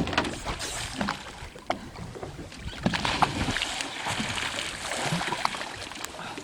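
Sounds aboard a small boat on the water: a steady wash of noise with scattered knocks and clicks.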